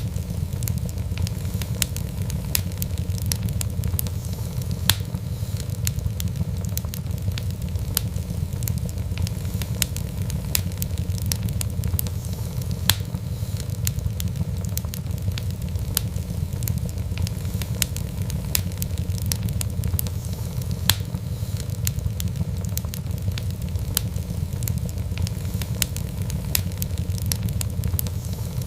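Wood fire burning steadily: a low rumble of flame with frequent irregular crackles and pops, a few louder snaps among them.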